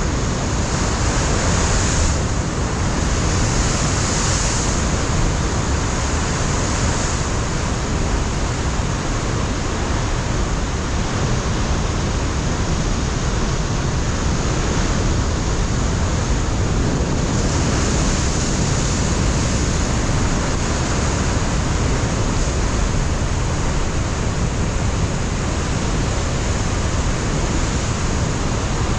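Ocean surf breaking on a rocky shore, a continuous wash of waves, with wind rushing over the microphone.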